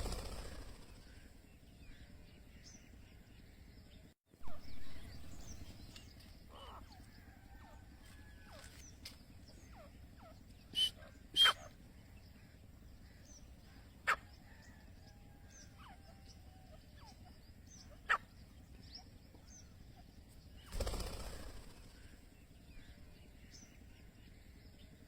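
Black francolins (kala teetar) giving a few short, sharp calls, the loudest a close pair about eleven seconds in, with single calls later and faint chirps between. Low thumps or rumbles sound at the start, about four and a half seconds in, and about twenty-one seconds in, over a steady low hum.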